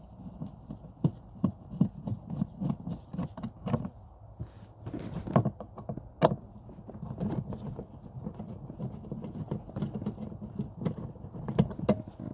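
Irregular small clicks and knocks of a screwdriver and plastic trim as Phillips screws are undone from the panel under a car's glove box, with a few sharper knocks about five, six and eleven and a half seconds in.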